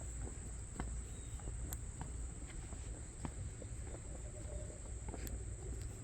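Insects trilling steadily at one high pitch, with a few scattered sharp clicks and a low rumble underneath.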